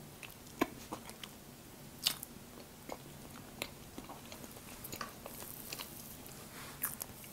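A person chewing a soft muffin close to the microphone: quiet wet mouth sounds with small sharp clicks and smacks at irregular intervals.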